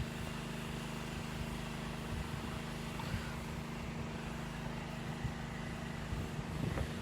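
A vehicle engine running steadily at a constant pitch.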